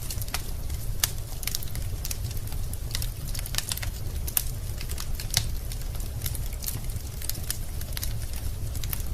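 Wood fire burning in a fireplace, with irregular crackles and pops from the logs over a steady low rumble of the flames.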